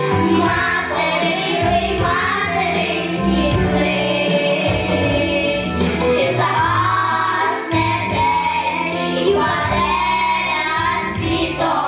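Children singing a song together over an instrumental backing track.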